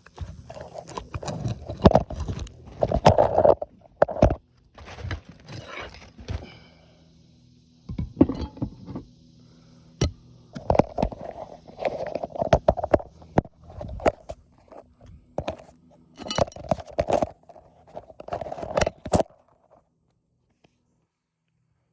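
Hand work on an asphalt shingle roof, heard close up: irregular knocks, clicks and scraping in bursts, stopping abruptly near the end.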